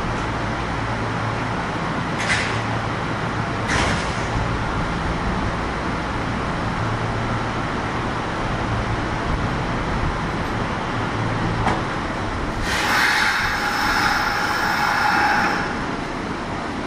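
Kintetsu 1021 series electric train standing at the platform with a steady low hum from its onboard equipment. Two brief clicks come about two and four seconds in, and a louder hiss lasting about three seconds follows near the end.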